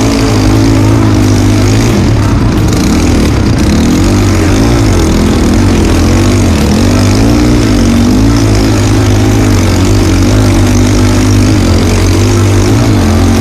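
Trail motorcycle engine running under way, its pitch rising and falling repeatedly as the throttle is opened and eased.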